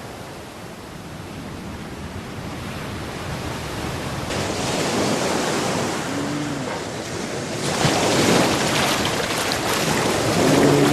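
Sea waves washing and splashing, with wind on the microphone. The noise grows louder, stepping up about four seconds in and again near eight seconds.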